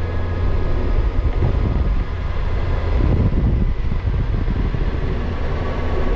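Vehicle on the move: a steady low rumble of engine and wind, with a faint even hum above it.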